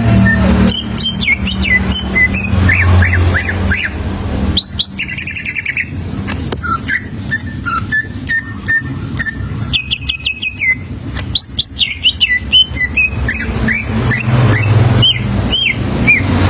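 Cucak ijo (greater green leafbird) singing a varied run of quick whistled glides and chirps, with a fast trilled phrase about five seconds in and another about ten seconds in, over a low steady hum.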